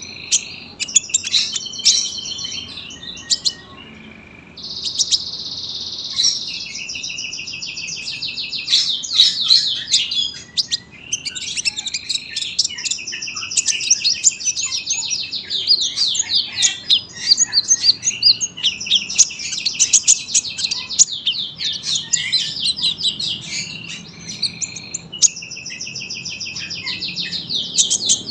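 Sunbird (kolibri ninja) singing a long, nearly unbroken high-pitched song of rapid trills and twitters, with only brief pauses.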